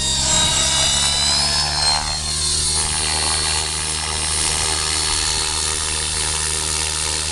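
Electric radio-controlled model helicopter (KDS Innova 700 V2, Scorpion brushless motor) in flight, its motor and main rotor giving a steady whine. About two seconds in, a set of tones sweeps downward in pitch as the helicopter moves.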